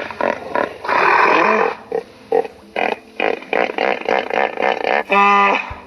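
Animal calls: a rapid string of short, choppy calls, with one longer rasping call about a second in and a short pitched call near the end.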